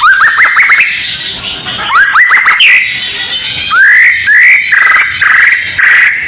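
White-rumped shama song, loud and dense: quick runs of rising whistled notes, then longer upswept whistles mixed with harsher rasping phrases. It is played as a 'pancingan' to provoke caged shamas into singing.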